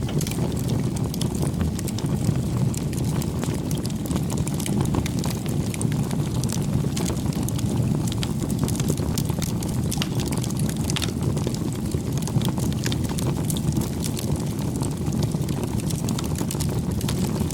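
Campfire burning: a steady low rush with frequent small, sharp crackles and pops from the burning wood.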